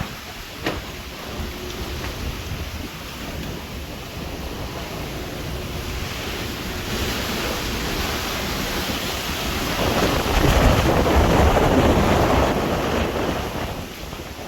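Wind buffeting the microphone, with a rushing, noisy roar. It builds gradually and peaks in a strong gust about ten seconds in, then eases off near the end.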